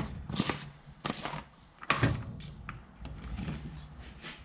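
A few sharp knocks and clatters with small clicks between, from hand work on an old steering column while its locked ignition lock cylinder is being removed.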